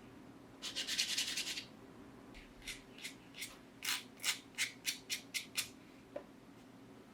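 Abrasive hand rubbing on a small model car part: a scrubbing burst about a second long, then about ten short, quick rubbing strokes that stop a little before the end.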